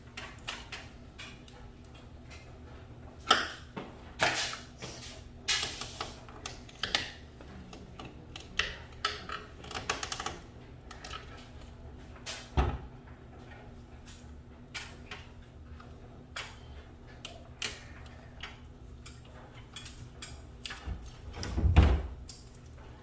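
Irregular clicks, clinks and knocks of garage door hardware being handled, as the lift cable that has slipped off its drum is worked on, with a heavier thump near the end.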